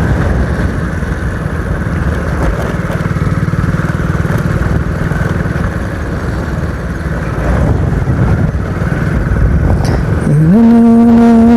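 Motorcycle engine running steadily at road speed. Near the end, a loud, steady pitched tone comes in on top of it.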